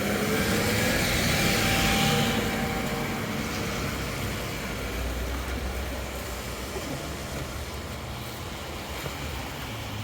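A car driving past on the street: tyre and engine noise swells over the first couple of seconds and fades away, leaving a steady low street and traffic noise.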